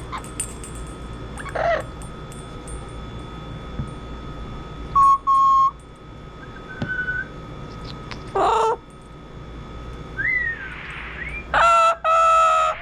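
Double yellow-headed Amazon parrot calling: a string of separate short squawks and whistles, some with a rising-then-falling pitch, with the loudest calls near the end.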